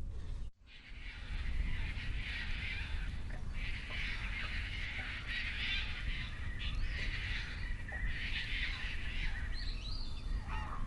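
Many birds calling at once after a cut about half a second in, a dense, steady chatter with a few short separate calls near the end, over a low rumble.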